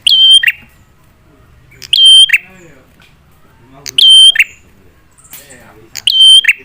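A prenjak (prinia) lure call: a loud, sharp call of about half a second, a high note dropping to a lower one, repeated evenly about every two seconds, four times.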